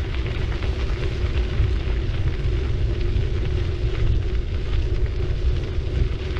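A city bicycle riding along, with wind rumbling on the action camera's microphone and the tyres crackling steadily over the road surface.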